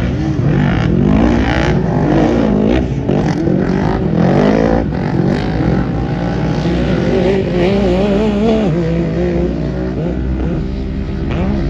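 Several off-road racing vehicles' engines running at once, their pitches rising and falling as they rev and ease off.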